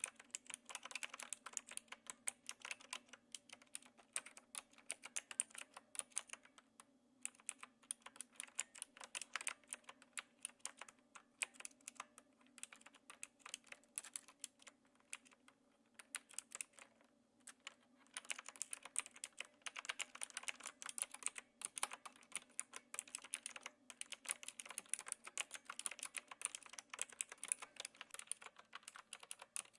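Typing on a Knewkey Rymek typewriter-style mechanical keyboard with clicky blue switches, light keystrokes in a fast steady stream. The typing briefly lulls about 7 and 17 seconds in.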